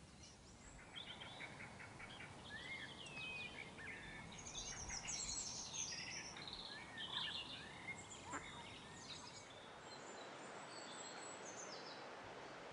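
Birds singing: a busy run of chirps, trills and short whistled phrases over steady background noise, thinning out after about ten seconds.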